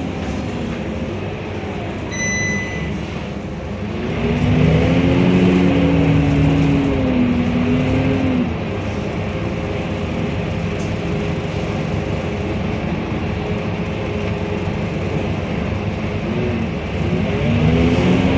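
Scania K230UB bus's five-cylinder diesel engine pulling away and accelerating about four seconds in, its pitch rising and dropping through the gear changes, then running steadily, with another pull-away near the end. A short high electronic beep sounds about two seconds in.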